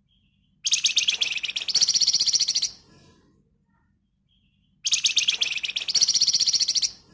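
Flamboyan (Javan fulvetta) singing its fast, dense rattling trill twice, each run lasting about two seconds and stepping slightly higher in pitch halfway through.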